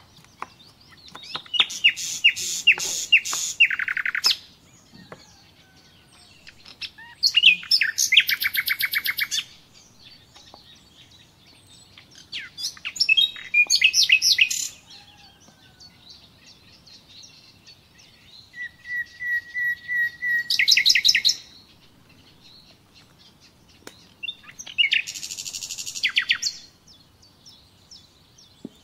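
A songbird singing: five trilled phrases of two to three seconds each, about six seconds apart.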